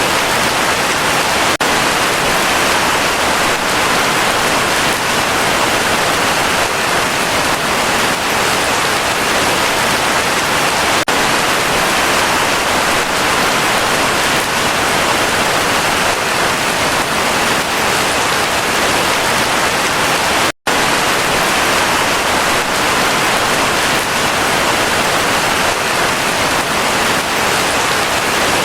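Heavy rain falling in a steady, dense hiss. It cuts out completely for an instant about two-thirds of the way through, then carries on unchanged.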